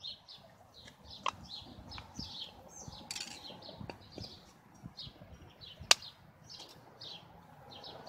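Small birds chirping over and over in the background, with a few sharp clicks, the loudest about six seconds in.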